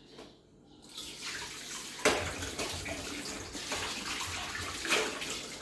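Water running from a tap into a sink, starting about a second in, with two sharp knocks partway through, the first about two seconds in and the second near the end.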